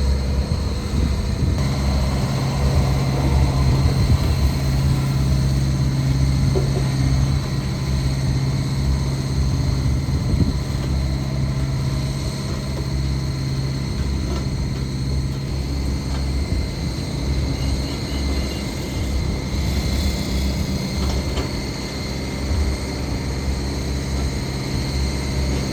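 Heavy diesel engine of a construction machine running steadily with a deep, continuous hum.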